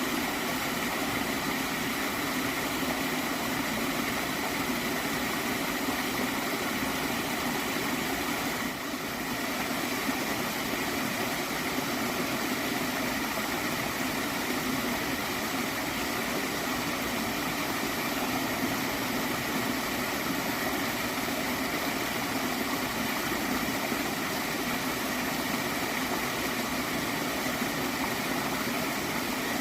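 Small stream of water flowing steadily, a continuous rushing with gurgling, briefly dipping about nine seconds in.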